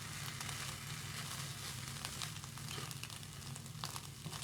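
Fried rice with egg and onion sizzling in a hot wok, with small scattered crackles over a steady low hum.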